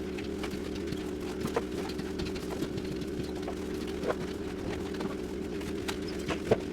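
An engine running steadily, with scattered short knocks and clicks; a sharper knock comes near the end.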